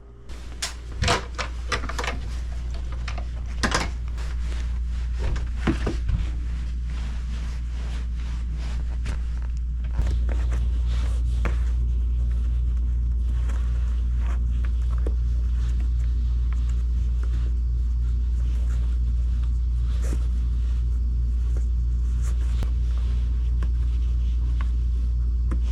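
Porsche Macan's engine idling with a steady low rumble. It is warmed up. Several clicks and knocks, like doors and handles, come in the first six seconds, and about ten seconds in the rumble steps up and then holds steady.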